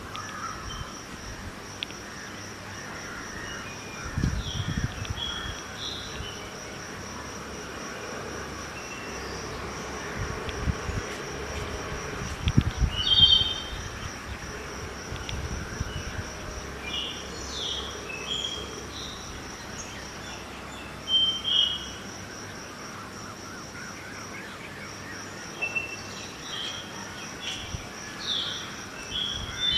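Early-morning outdoor ambience: a steady high insect trill runs throughout, with scattered short bird chirps. A few low gusts of wind rumble on the microphone, the strongest about four and twelve seconds in, over a faint hum of distant traffic.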